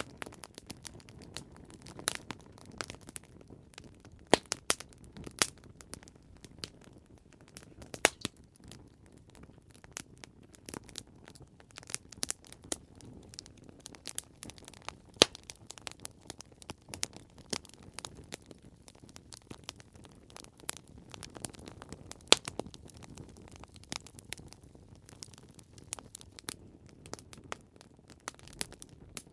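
Wood fire crackling: irregular sharp pops and snaps, a few of them louder, over a soft low rumble of burning.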